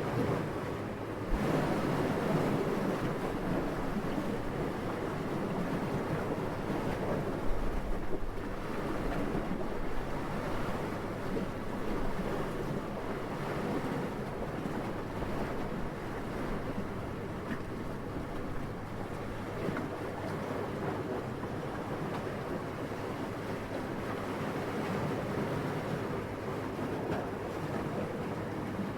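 Steady wind, its noise swelling and easing in gentle gusts, with a stronger gust about a second in.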